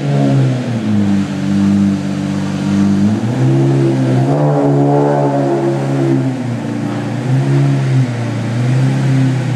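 Straight-piped Lamborghini Murciélago LP640 Roadster's 6.5-litre V12 running loud and being revved up and down a few times, the biggest rev about four to six seconds in.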